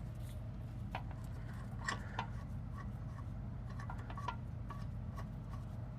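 Scattered metallic clicks and clinks of a hand wrench working 14 mm brake bolts, at irregular intervals over a steady low hum.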